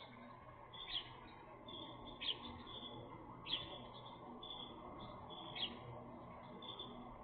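Birds chirping: four sharp, loud chirps spaced a second or two apart, with softer high twittering notes between them.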